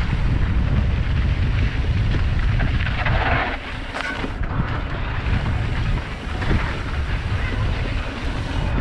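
Wind buffeting the microphone of a camera riding along on a mountain bike during a trail descent: a steady, heavy low rumble with rushing noise, briefly brighter at about three to four seconds in.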